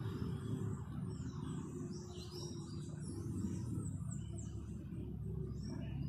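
Small birds chirping: many quick, high, falling chirps overlapping, starting about a second in, over a steady low rumble.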